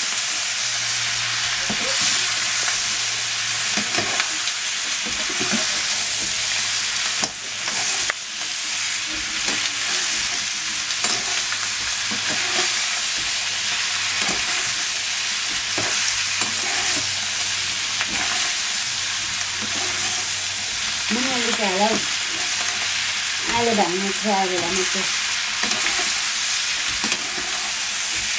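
Pork intestine frying in a pan with a steady sizzle, while a utensil stirs and scrapes with scattered clicks. Near the end come two short, wavering pitched sounds.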